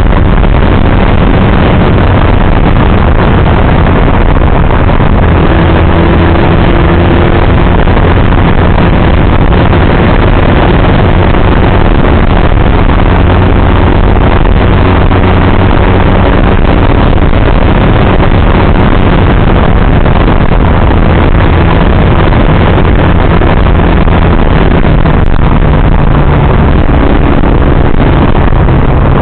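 Motorcycle engine running at a steady cruise under loud, rushing wind noise on the microphone, its pitch shifting slightly a few times.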